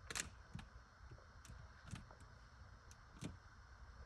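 Faint, irregular clicks and taps of a finger pressing the buttons on a Sub-Zero refrigerator's control panel, which gets no response.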